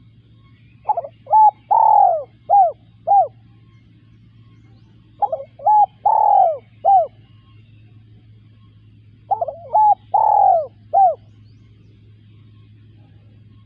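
Spotted dove cooing: three phrases about four seconds apart, each a short run of falling coo notes with one longer, louder coo in the middle. A faint steady low hum lies underneath.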